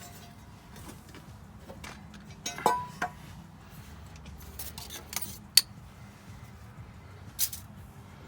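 Hand tools clinking and tapping against metal: a handful of separate sharp metallic clinks, one with a short ring, the sharpest a little past halfway.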